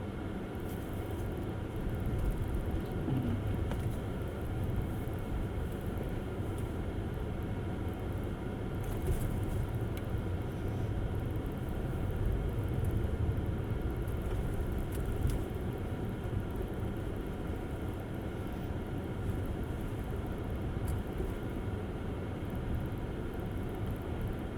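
Tesla Model S driving on snow-covered roads: a steady low rumble of tyre and road noise.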